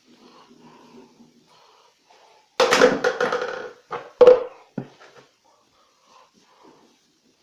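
Two loud clattering knocks about a second and a half apart, each with a short ringing note, as a thrown fidget spinner strikes a hard surface.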